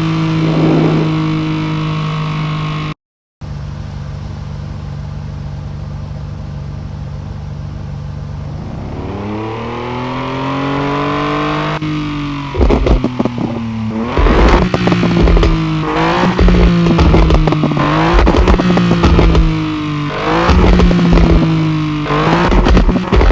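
BMW E30 with a crackling aftermarket exhaust, idling steadily, then revved up slowly. It is then blipped repeatedly, about once every one to two seconds, with sharp crackles and pops from the exhaust as each rev falls back.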